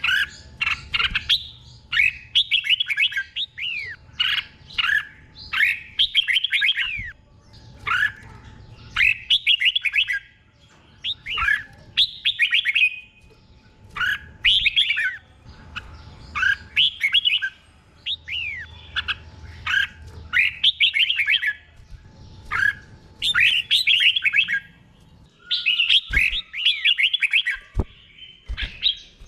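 Red-whiskered bulbul singing a continuous string of short, quick phrases of sliding whistled notes, one after another with brief pauses between them.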